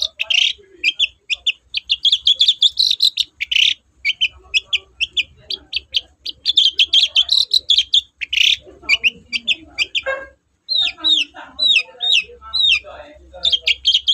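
Long-tailed shrike singing a loud, fast song of short chattering notes, with a run of down-slurred whistled notes about three-quarters of the way through.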